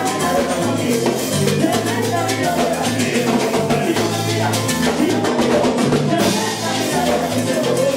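A salsa band playing live, with a moving bass line, drum kit and percussion.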